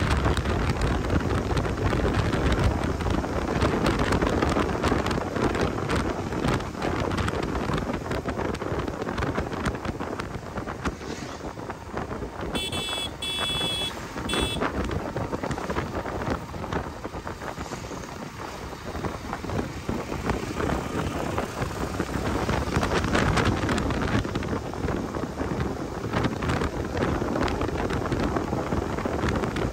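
Wind rushing over the microphone of a moving motorcycle, with road and vehicle noise underneath. About twelve seconds in, a vehicle horn sounds in short pulses for about two seconds.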